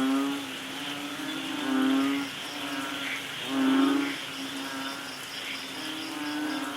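Rain falling steadily, with frogs croaking in loud swelling calls about every two seconds and a fast, high insect-like pulse behind them.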